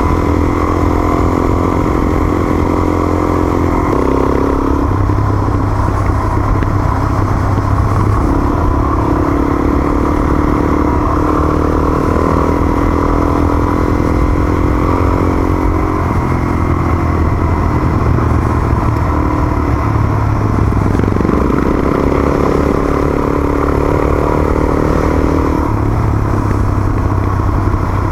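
Dual-sport motorcycle engine running under load on a dirt track, its pitch stepping up and down several times with throttle and gear changes.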